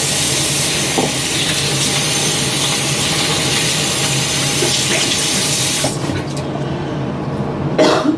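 Sink tap running steadily, turned off about six seconds in, followed by a short sharp noise near the end.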